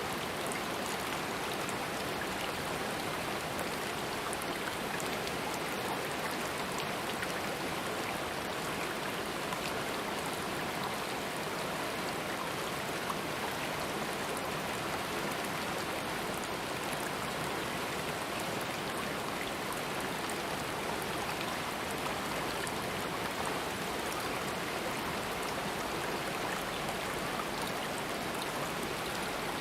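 Running water of a stream or small waterfall, a steady even rush with fine splashing throughout.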